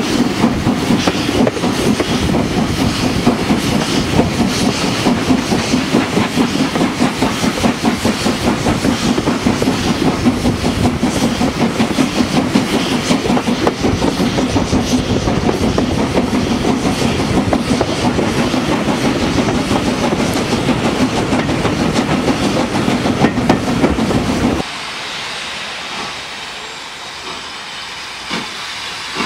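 A steam-hauled train running past with a steady rumble, its wheels clattering rapidly over the rail joints. About 25 seconds in it cuts off abruptly to a much quieter steady hiss.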